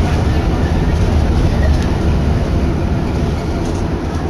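Randen (Keifuku Electric Railroad) train's steady low rumble, easing slightly near the end.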